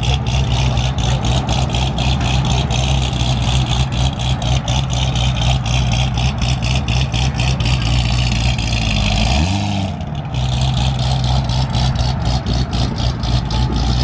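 Car engine idling with a rapid pulsing beat, revved briefly once about nine and a half seconds in.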